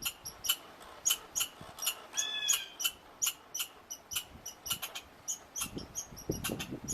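A small animal squeaking: short high-pitched squeaks repeated about twice a second, with one longer drawn-out squeak a little after two seconds in.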